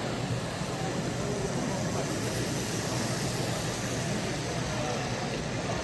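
Steady, indistinct murmur of a crowd talking at once in a large hall.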